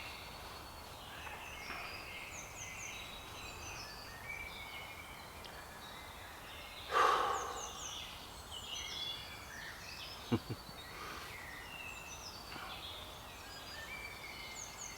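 Woodland songbirds singing: many short high chirps and trilled phrases repeating throughout. About seven seconds in there is a brief louder rush of noise, and a little after ten seconds two quick knocks.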